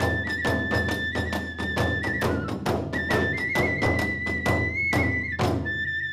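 Hiroshima kagura music: a bamboo flute plays a high, held melody over fast, steady strokes of drum and hand cymbals, about four to five beats a second, which space out near the end.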